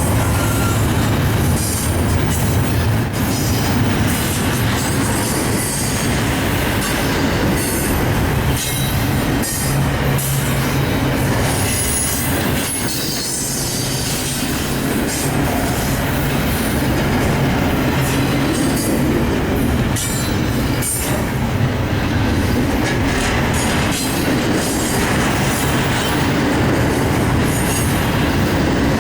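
Union Pacific train rolling steadily past, its steel wheels clattering over the rail joints in a continuous run of clicks and rumble, with faint high wheel squeal at times.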